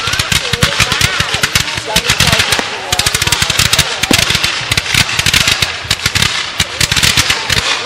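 Fireworks going off in rapid, continuous volleys of bangs and crackles, many sharp reports a second.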